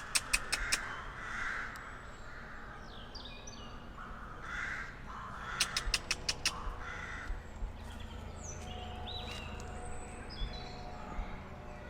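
Birds calling: a fast run of sharp clicking notes, about six a second, stopping just under a second in and coming again about six seconds in, with two short noisy calls between them and thin chirps from small birds throughout.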